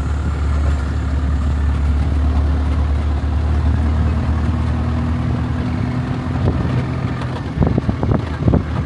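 Game-drive vehicle's engine running with a steady low rumble, with a few knocks or rattles near the end.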